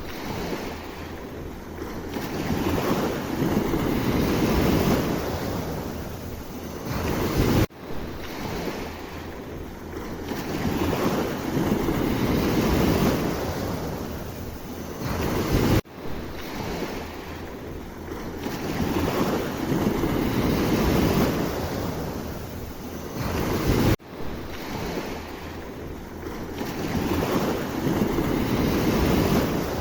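Sea waves washing in and out, swelling and falling back, with wind rumbling on the microphone. A brief sharp dropout comes about every eight seconds.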